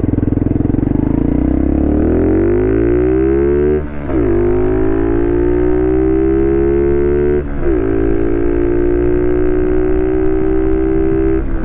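Honda Cross Cub 110 (JA45) 110 cc air-cooled single-cylinder engine, breathing through a Wirus Win pod filter enclosed in the stock air-cleaner box cover, accelerating away. The engine note climbs steadily, drops sharply at upshifts about four seconds in and again about seven and a half seconds in, then climbs again in each higher gear.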